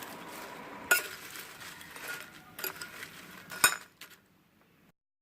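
A spoon stirring and scraping fried beetroot chips with fried garlic and curry leaves in a dish, with three sharp clinks against the dish, dying away near the end.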